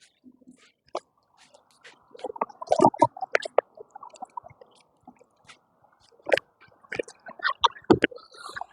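Wet foam brush scrubbing a car's body: irregular squishing and rubbing with scattered clicks and knocks, busiest about two to three seconds in and again near the end.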